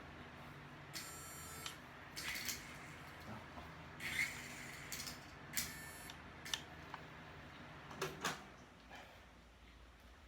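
Small electric motors of a toy RC helicopter spinning its rotors with a steady low hum, broken by several short rattling, scraping noises; the hum drops away near the end.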